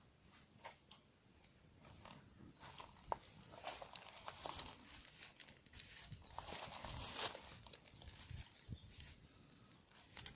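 Wood fire burning with a faint crackle and scattered sharp pops, busier through the middle.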